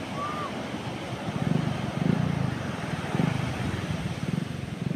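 Strong wind buffeting the microphone over the wash of surf, in low gusting rumbles.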